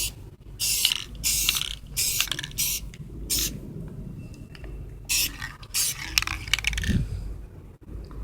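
Aerosol can of clear coat spraying in a series of short hissing bursts, light passes laid over the tail light lenses.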